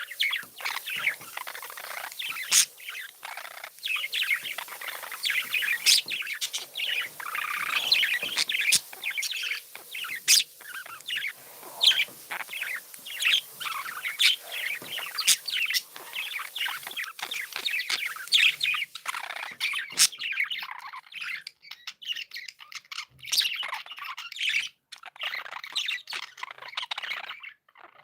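Budgerigars chirping and warbling together in a busy, continuous chatter, with sharp clicks now and then; the chatter thins out about two-thirds of the way through.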